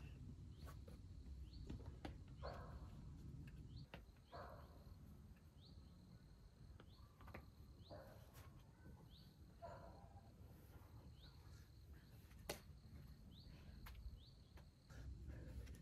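Faint outdoor ambience: a low rumble of wind with a bird repeating a short rising call about once a second. There are a few sharp clicks, the loudest about three-quarters of the way through.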